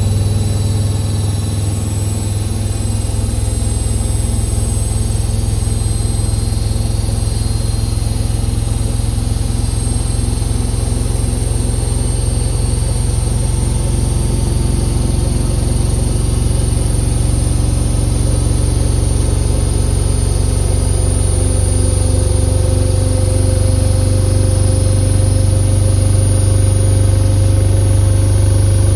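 Indesit IWC6165 front-loading washing machine in a fast spin, running as a continuous steady hum with a motor whine that rises slightly and gets a little louder toward the end.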